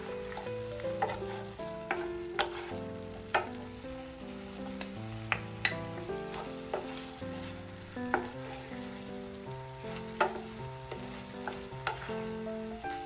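Pork sizzling in a frying pan as it is stirred with a wooden spoon, with sharp scrapes and knocks of the spoon against the pan at irregular moments. Soft background music with changing notes runs underneath.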